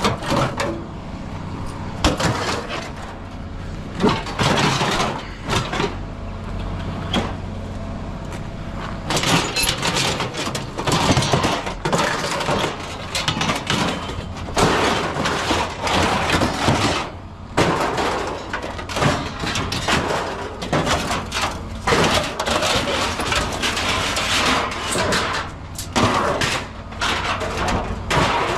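Scrap metal clanking and crashing as pieces are thrown and tipped, many irregular impacts that grow busier about a third of the way in, over a steady engine hum.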